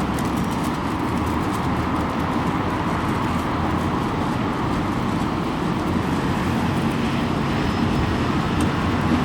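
Steady rumble of road traffic on a busy multi-lane city avenue, mixed with strong wind.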